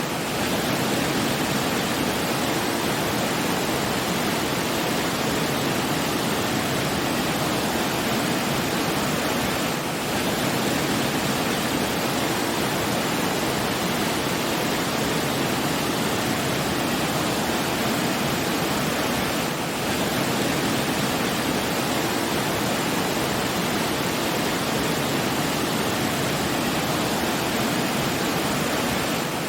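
Steady rushing water, like a waterfall, as an even unbroken roar, with a brief slight dip in level about every ten seconds.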